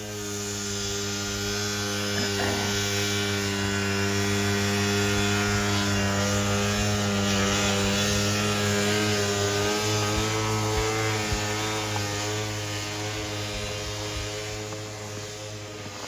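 Yamaha Snoscoot's swapped-in 250cc two-stroke engine running at steady high revs as the sled rides through deep snow, holding a constant note that grows louder over the first half and fades toward the end.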